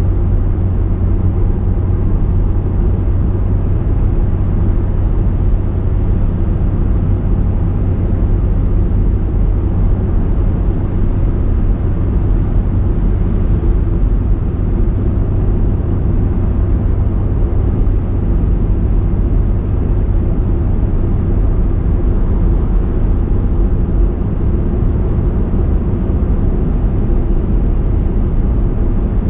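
Car driving at a steady pace: constant engine and tyre road noise, deep and even, with no changes.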